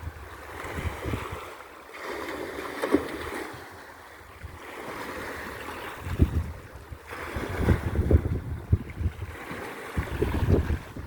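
Mediterranean Sea waves washing in repeated swells, with wind buffeting the microphone, heavier in the second half.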